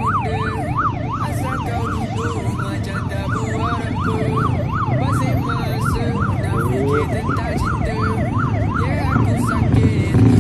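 Police car siren on a fast yelp, its pitch sweeping up and down about three times a second, stopping near the end, over a low vehicle rumble.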